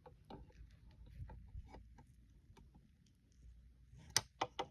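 Faint scattered clicks and taps of small objects being handled, with three sharper clicks close together near the end.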